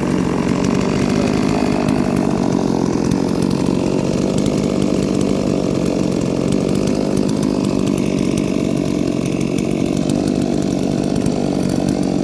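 Ported two-stroke chainsaw running continuously at a steady high pitch.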